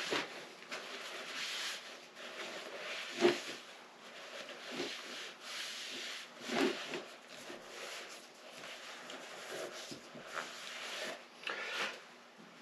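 Gritty rubbing strokes of a rust-seized 1973 Honda CB450 engine's internals being worked back and forth by hand, repeating about once a second, with a few sharper knocks. The scraping comes from rust still left inside.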